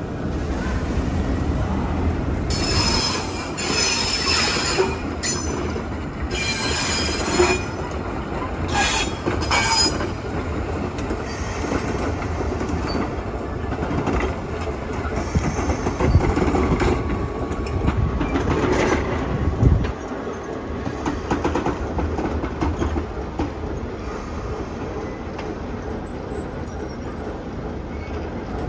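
A train rolling past on the tracks with a steady rumble, broken in the first ten seconds by several bursts of high-pitched wheel squeal, with clicking from the wheels over the rail joints.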